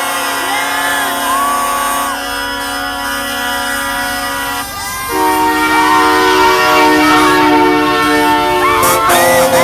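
Truck air horns blowing long, steady chords; a louder horn chord comes in about five seconds in and holds for several seconds.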